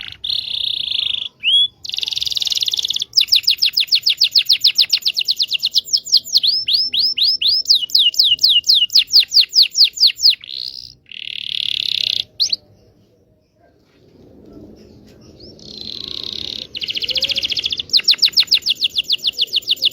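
Domestic canary (Indonesian local canary) singing in long, fast trills of repeated sweeping notes, several per second, with some held buzzy notes between the runs. The song breaks off for about a second past the middle, then picks up again.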